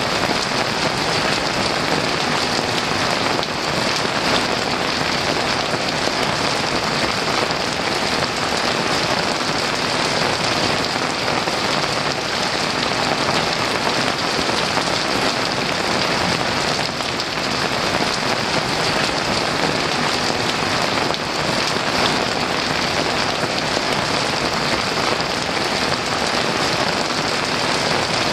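Heavy rain pouring steadily, a dense, even hiss of falling drops with no thunder.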